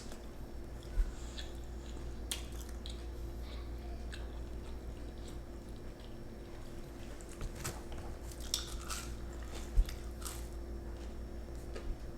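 People biting into and chewing spicy breaded chicken nuggets, with soft crunches and wet mouth clicks over a steady low hum. There are two sharp low thumps, about a second in and near the end.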